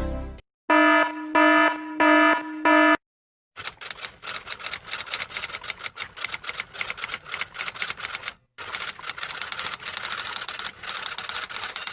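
Sound effects: four short beeps, then a fast, uneven run of clicks lasting about eight seconds with a short break midway.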